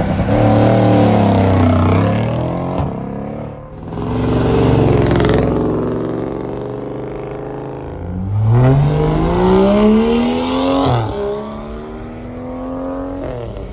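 Car engines revving and accelerating hard as cars pull away, in several loud bursts. The strongest starts about eight seconds in: its pitch climbs steadily, then drops sharply near eleven seconds and runs on more evenly.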